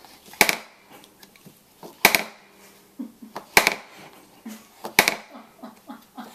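A baby banging on an open dishwasher: four sharp clacks, each with a brief ring, about one and a half seconds apart.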